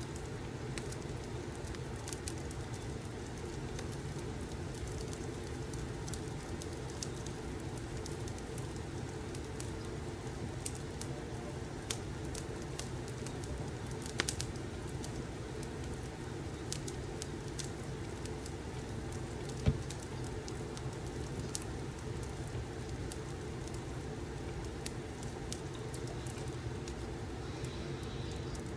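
Wood fire crackling: irregular small pops and clicks over a steady low rumble, with a sharper pop about twenty seconds in.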